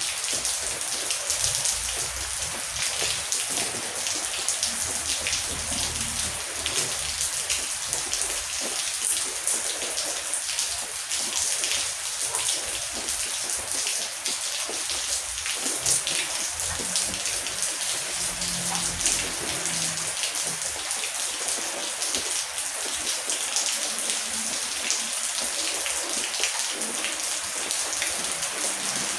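Heavy rain falling steadily: an even hiss thick with the patter of individual drops.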